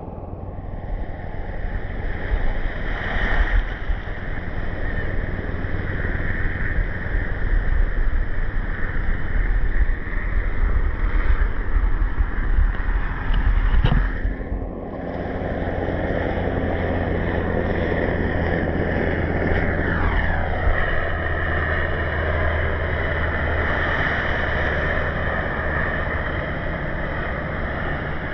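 Underwater water noise with a steady low motor-like drone, shifting character abruptly about halfway through.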